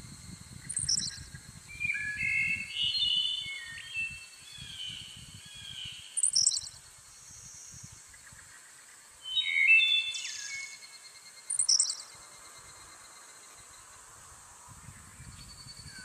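Wild birds calling: a short burst of high chirps comes back about every five seconds, three times, and between them come quick runs of lower whistled notes stepping up and down. A faint steady high whine runs under them.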